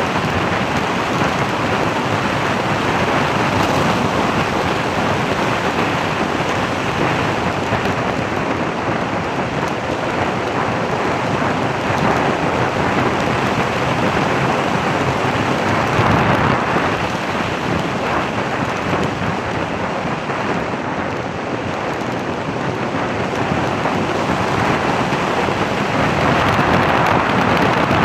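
Steady rushing wind and road noise from a moving vehicle, with no clear engine note or separate impacts.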